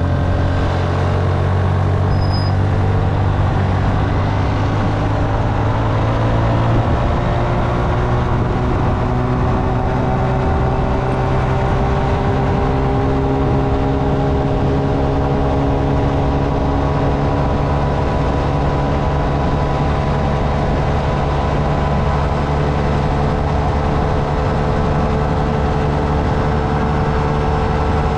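Honda Navi motorcycle's small single-cylinder engine running while riding, its note climbing slowly and steadily as it gains speed, over a steady low rumble.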